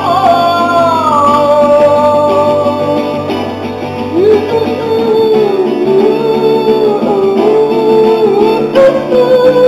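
Live song performance: guitar under a wordless sung line of long held notes, the voice sliding down about a second in and wavering on a lower note later.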